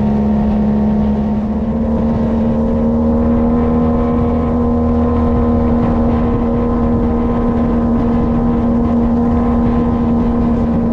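Boat engine running at a steady speed, loud and even in pitch.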